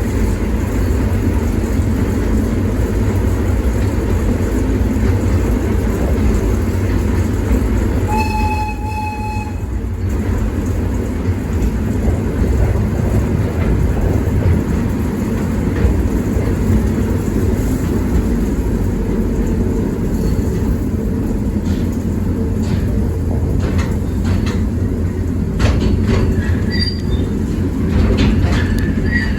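Diesel-powered replica Lartigue monorail locomotive and carriages running along the single elevated rail, a steady low rumble. A short horn sounds once about eight seconds in, and clicks and knocks come near the end.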